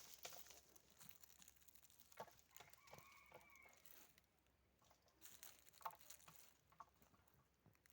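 Near silence with faint rustling and scattered clicks, and a single faint, steady animal call lasting about a second, roughly three seconds in.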